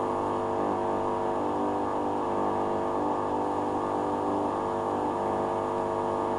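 Hoover Dynamic washing machine running in its rinse cycle, giving a steady, unchanging mechanical hum.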